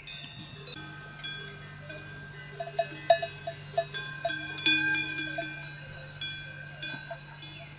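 Bells clanking irregularly, each strike leaving ringing tones at several pitches, with a quick cluster of strikes in the middle.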